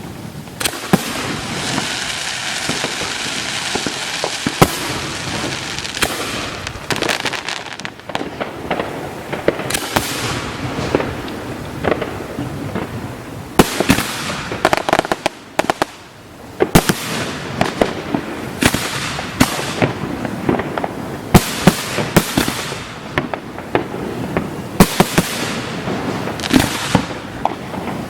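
An aerial fireworks display heard close up: shells bursting one after another, with a steady crackle and hiss between the loud reports. There is a brief lull about halfway through, then a dense run of bursts.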